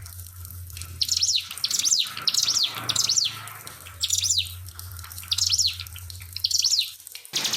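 A ciblek pinus, a prinia, sings in short, rapid, sweeping bursts, about seven of them, over trickling water and a low steady hum. A fast, even rattling sound cuts in abruptly near the end.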